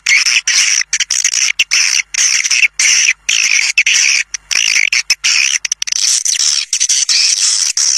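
Swiftlet caller sound: dense, rapid chattering of swiftlet chirps, many to the second, played as a recording to lure swiftlets to a nest house.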